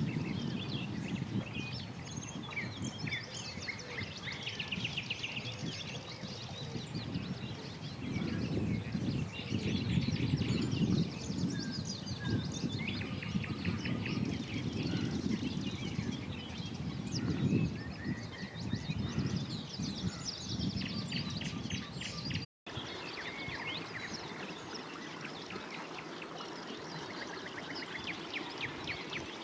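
Many birds singing and calling at once around ponds, with trills and chirps overlapping throughout. A low rumble runs underneath and drops away after a brief break about three quarters of the way through.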